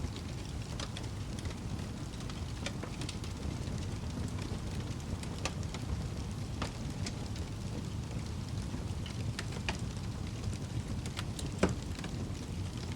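Wood fire burning in a fireplace: a steady low rumble of flames with scattered sharp crackles, and one louder pop near the end.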